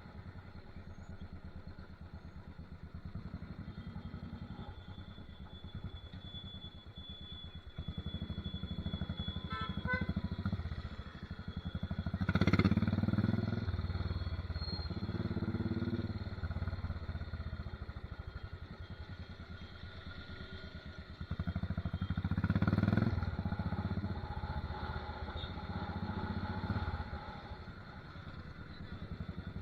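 Royal Enfield Desert Storm's single-cylinder engine running through an aftermarket megaphone silencer: a steady low thumping beat that swells louder twice, about twelve and twenty-two seconds in, as the engine is opened up.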